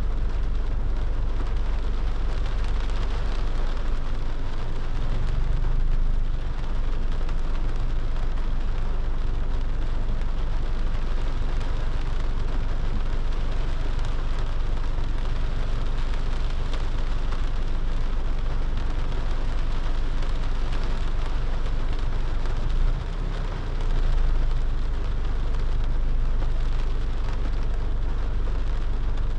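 Steady rain falling on a car, over a constant low rumble.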